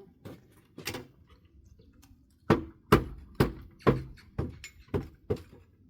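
Hammer blows on pallet wood: two light taps, then from about two and a half seconds in a steady run of about seven hard strikes, roughly two a second. The wood is very hard.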